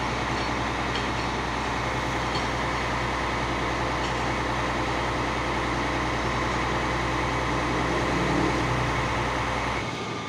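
Heavy fire truck's engine running steadily with a deep, even hum, dropping away abruptly near the end.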